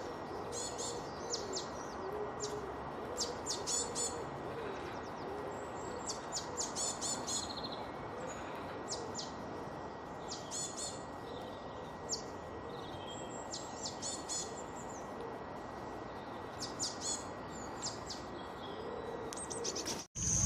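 Wild birds singing: many quick high chirps and trills from several birds, with a low wavering call repeating underneath and a thin steady whine in the background. The soundtrack cuts off abruptly just before the end.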